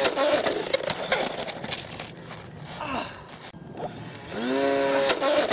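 Small electric RC-plane motor and propeller spinning up to a steady whine, then a rough crackling clatter. The spin-up comes again near the end.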